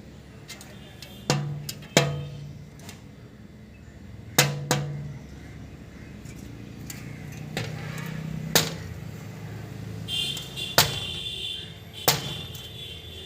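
Woodpecker pecking on a hard, resonant surface: about seven sharp single knocks at irregular intervals, several leaving a short low ring behind them.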